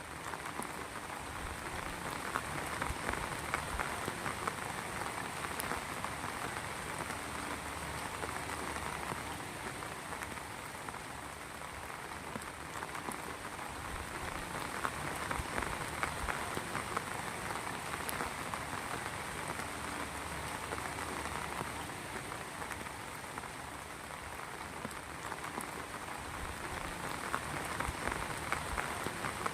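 Heavy rain falling steadily, a dense patter of drops on surfaces that swells and eases gently every few seconds.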